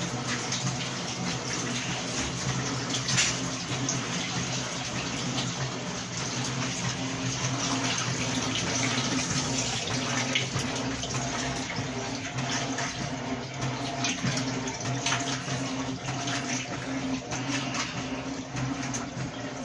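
Electrolux LQ11 washing machine with water running and splashing inside the tub, over a steady low hum.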